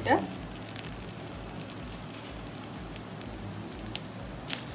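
Freshly grated coconut sizzling in ghee in a nonstick pan: a steady crackling hiss, with a few small pops near the end.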